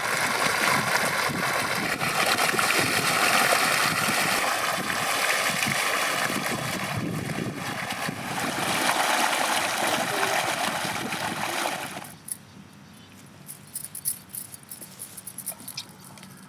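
Water running and splashing steadily for about twelve seconds, then cutting off suddenly, followed by faint light clicks and handling sounds.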